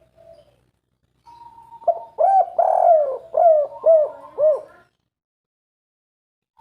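Spotted dove (tekukur) cooing: a faint short coo at the start, then about two seconds in a loud run of some five rounded, rising-and-falling coos lasting about three seconds.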